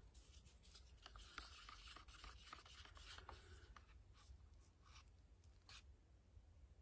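Faint scratching and rubbing with many small clicks, busiest over the first three seconds and thinning out to a few isolated clicks afterwards.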